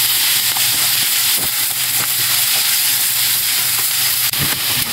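Pork and cabbage sizzling in hot oil in a frying pan, stirred with wooden cooking chopsticks that tick against the pan now and then. A low steady hum runs underneath.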